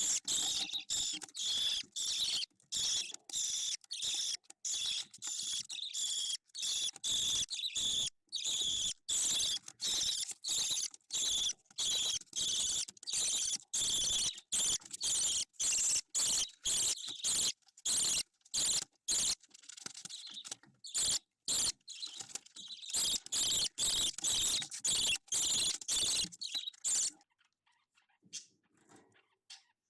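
Budgerigar chick calling in a rapid run of short raspy chirps, stopping near the end.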